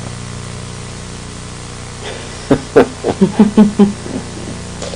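Steady hiss and low hum of the recording. About two and a half seconds in comes a person's voice in a quick run of short bursts, about five a second, lasting around a second and a half.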